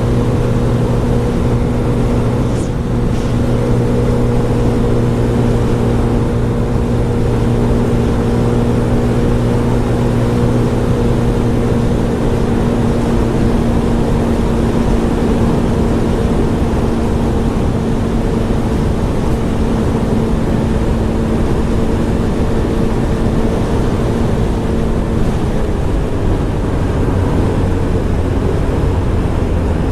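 Scomadi TT125 scooter's 125 cc engine running at a steady cruising pace under a constant rush of wind and road noise. The engine note drops lower about 25 seconds in, as the scooter eases off.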